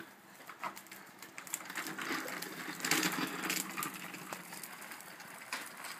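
A child's bicycle rolling along, its tyres making a rough, gritty noise with scattered clicks, loudest about two to four seconds in.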